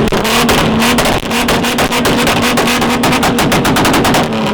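Toyota Supra Mark IV's 2JZ inline-six revved hard and held at a steady high rev, with rapid crackling pops from the exhaust, dropping off near the end.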